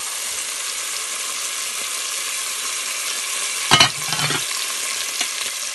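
Chopped onions, ginger and garlic frying in oil in a pot with freshly added tomato sauce: a steady sizzle. A brief knock and clatter comes about four seconds in.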